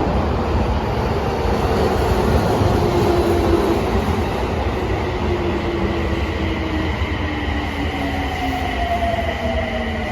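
Subway train pulling into a station and slowing. Its motor whine falls steadily in pitch over the rumble of wheels on rail, and a faint high whine joins about halfway through.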